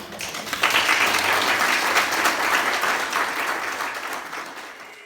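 Audience applauding after a poem is read, swelling about half a second in and fading out near the end.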